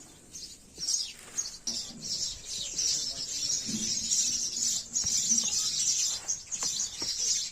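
Small birds chirping busily and continuously, with a low dove-like cooing in the middle.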